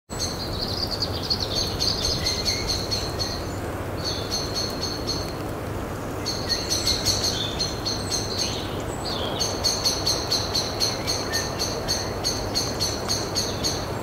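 Bird calling in bouts of a few seconds, each a rapid run of short high notes, over a steady background hiss of outdoor ambience.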